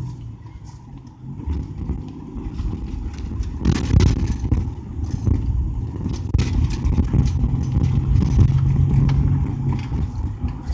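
A car's engine and tyre noise heard from inside the cabin while driving: a steady low hum and rumble that grows louder about four seconds in.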